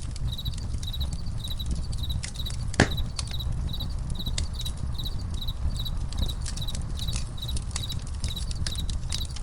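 Campfire crackling with scattered sharp pops, one louder pop about three seconds in, over a low rumble. Crickets chirp steadily in an even rhythm throughout.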